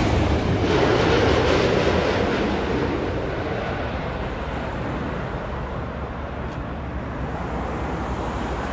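Engine noise of a jet airliner on arrival after it has passed, a broad rumble fading slowly over several seconds.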